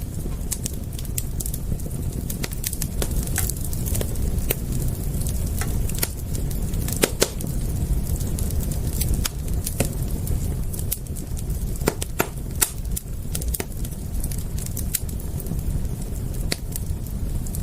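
Wood fire crackling, with irregular sharp pops and snaps over a steady low rumble of the flames; a few louder pops stand out about seven seconds in and again around twelve to thirteen seconds.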